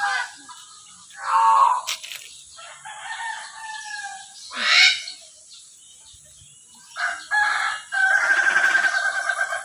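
Captive birds calling: several drawn-out, crowing calls, the longest one near the end with a quick pulsing, and a short sharp call about five seconds in.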